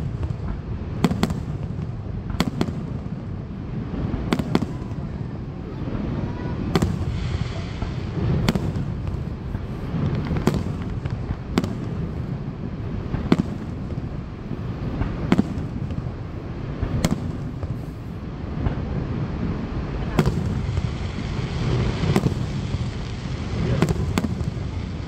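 Aerial fireworks shells bursting, a sharp bang every one to two seconds, each with a brief echoing tail, over a steady low rumble.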